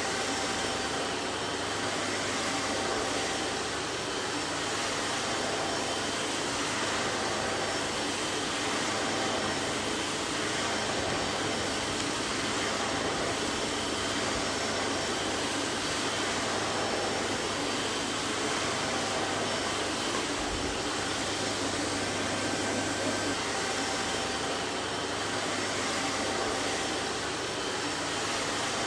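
Vacuum cleaner running steadily: an even, unchanging rush of air with a faint hum and a few thin whining tones.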